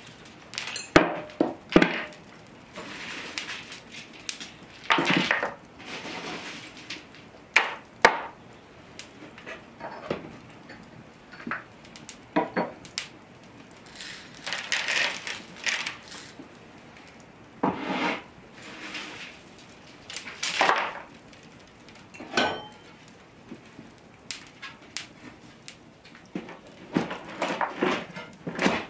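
Kitchen utensils knocking, clinking and scraping against pots and dishes in irregular short bursts, with scattered sharp knocks.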